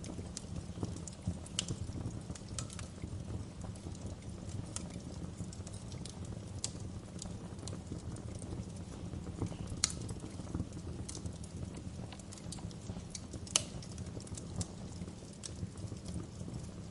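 Wood fire in a fireplace crackling, with a steady low rumble of the flames and scattered sharp pops, two louder pops near the middle and later on.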